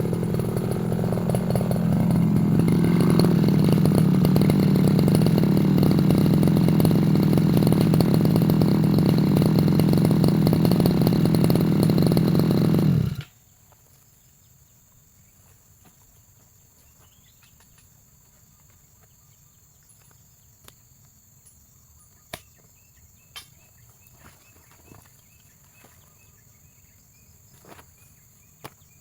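Brush cutter engine running at high revs, climbing about two seconds in and holding steady, then cut off abruptly about halfway through. After that only faint scattered clicks remain.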